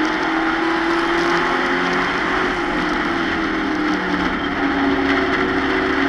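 Stock-car race truck engine at high revs, heard from inside the cockpit, with road and wind noise. The engine pitch drops for a couple of seconds around the middle as the driver eases off for a corner, then climbs again under throttle.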